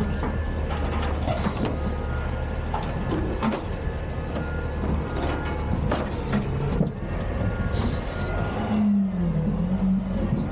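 Autocar/Heil Freedom front-loader garbage truck running steadily, with scattered metallic knocks and clanks from the truck's equipment and a short whine that dips and rises about nine seconds in.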